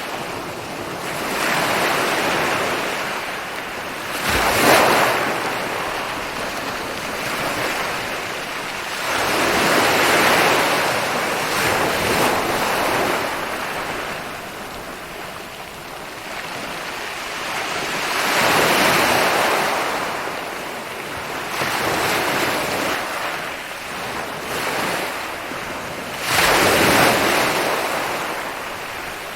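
Ocean waves rolling in and breaking on a beach: a continuous wash of surf that swells and fades as several waves break. The sharpest break comes about five seconds in, and another loud one near the end.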